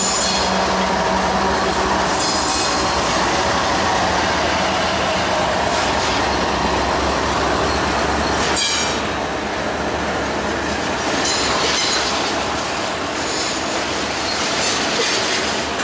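Double-stack intermodal freight train passing close by: a diesel locomotive's engine drones for the first couple of seconds, then steel wheels of the loaded well cars roll and clatter over the rails, with several short high-pitched wheel squeals.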